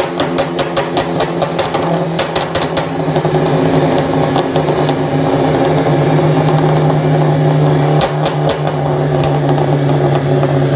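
Car engine through a loud modified exhaust, crackling with rapid sharp pops for the first few seconds, then brought up to a louder, steady rev that it holds, with a few more pops about eight seconds in.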